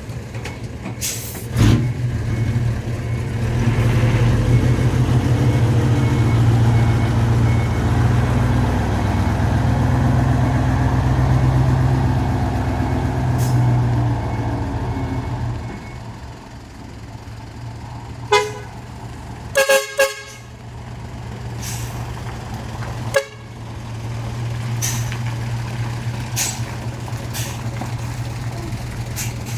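Decorated truck's diesel engine running through a deep rumbling (gorogoro) muffler, louder for about ten seconds early on and then settling lower. Around the middle, a few short blasts of its trumpet air horns, plus a sharp hiss or thump near the start.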